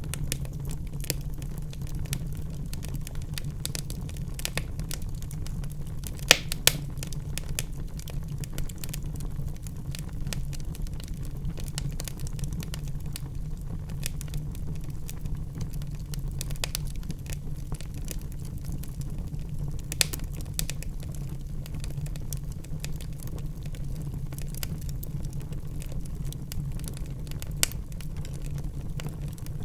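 Wood fire in a fireplace crackling steadily, with a constant low hum of burning underneath. A few sharper pops stand out: two about six seconds in, one near the middle and one near the end.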